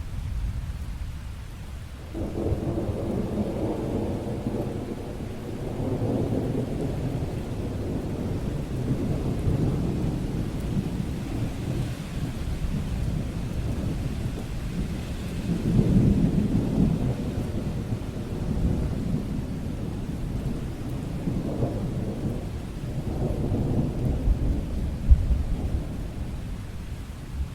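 Thunder rumbling over rain, a low rumble starting about two seconds in and swelling again and again, loudest about halfway through.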